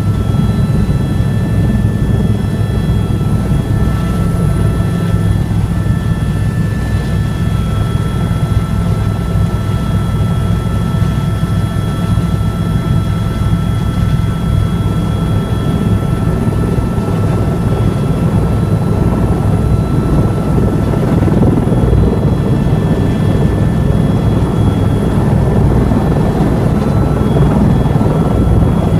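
Tour helicopter running: a steady low rotor-and-engine drone with thin, high whining tones above it, growing slightly louder about three-quarters of the way through.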